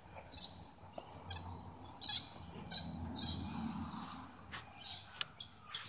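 Birds chirping outdoors: a string of short, high chirps about one a second, over a faint low background rumble.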